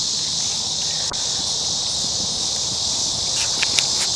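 Steady, high-pitched chorus of insects, with a few light clicks near the end.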